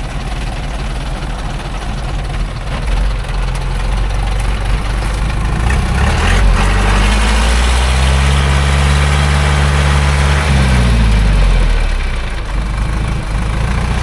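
Loaded logging truck's engine running at idle, then revving up about six seconds in, holding high for a few seconds and dropping back to idle near the end.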